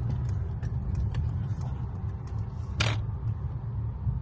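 Steady low rumble of a Mercedes-Benz car moving slowly, with scattered light clicks and one sharper click a little before three seconds in.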